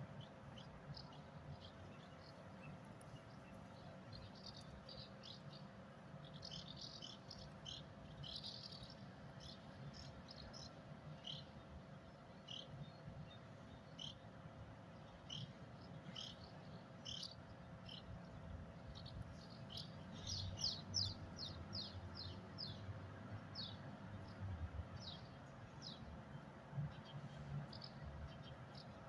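Small birds chirping faintly: many short, quick chirps that come in clusters, over a low steady background hum.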